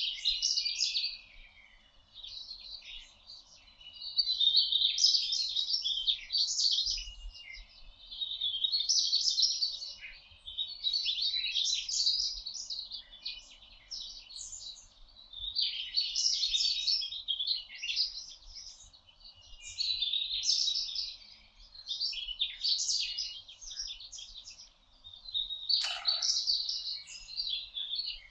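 A songbird singing in woodland, with a busy, chattering phrase lasting a second or two and repeated every three to four seconds.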